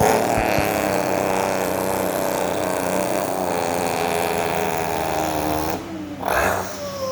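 A person imitating a semi truck's diesel engine by mouth: a long buzzing drone whose pitch slides down as the truck slows on its Jake brake. It stops suddenly near the end and a short rising-and-falling vocal burst follows. The sound echoes in a bare room.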